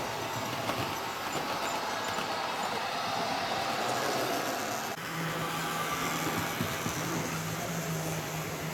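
Model trains running on the layout track: a steady rolling, rumbling noise. A steady low hum joins about five seconds in, after an abrupt break.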